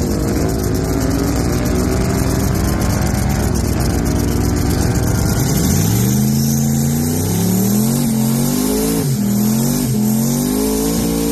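Drag car engine running loud and rough, then about five seconds in it revs up and holds high revs, with two sharp drops in revs near the end.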